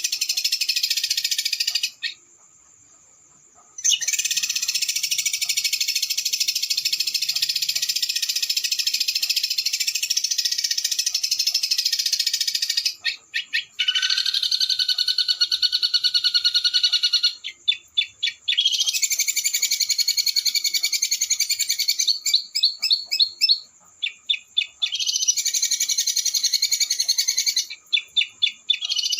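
Small songbird's rapid, harsh trilling song: long dense rolls of very fast notes, broken by short pauses and runs of separate stuttered notes. This is a 'roll speed' training song played for caged songbirds to copy.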